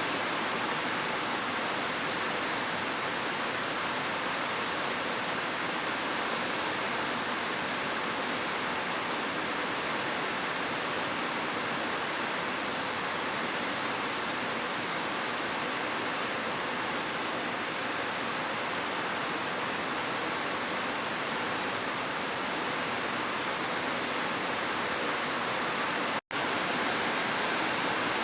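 Heavy rain falling as a steady, even hiss, with a momentary break to silence about 26 seconds in.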